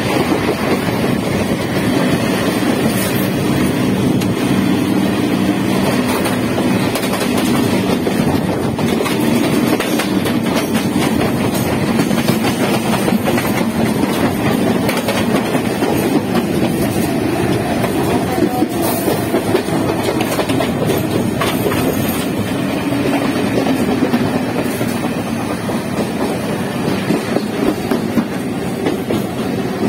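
Two EMU electric local trains running side by side at speed, heard from the open doorway of one: a steady rumble of wheels on rails, with the wheels clacking over rail joints.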